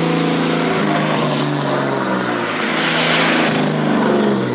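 An engine running loud, its pitch sliding down and up as the throttle changes, with a rushing hiss about three seconds in.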